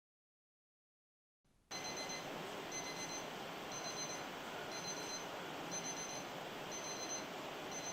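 After a moment of silence, a short, high electronic beep repeats about once a second over a steady hiss, like an alarm clock going off.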